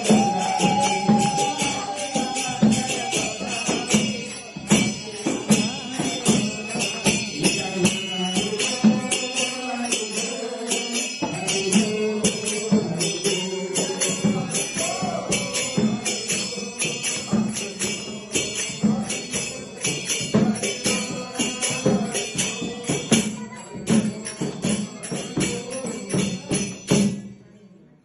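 Nama sankirtan: a group chanting a devotional kirtan to rapid, steady hand-cymbal strokes and a drum beat. The music cuts off abruptly near the end.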